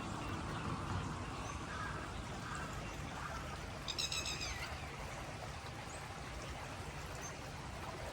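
Quiet outdoor background hum with a bird calling: faint calls about two seconds in, then a quick trill of high chirps about four seconds in.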